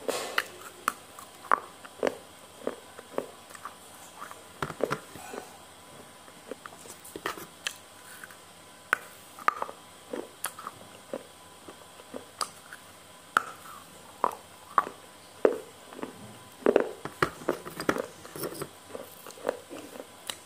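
A person chewing and eating spicy noodles, with irregular sharp mouth clicks and smacks.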